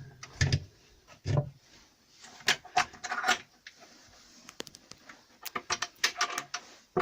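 Irregular clicks, knocks and rubbing, the sound of fittings and cupboard parts being handled in a small room.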